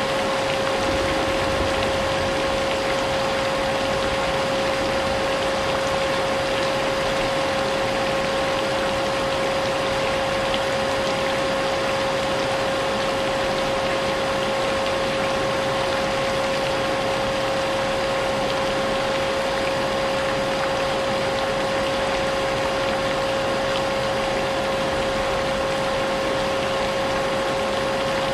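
Vacuum cleaner running steadily with a constant whine, mixed with a continuous hiss of rain.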